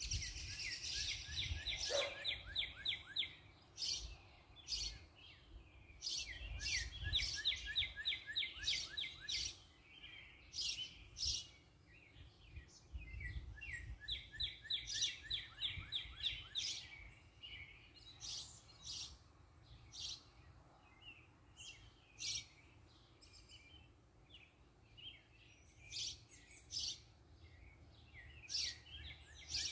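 Wild songbirds singing and calling: three fast trills of repeated falling notes, with many sharp chip notes between them that thin out in the second half.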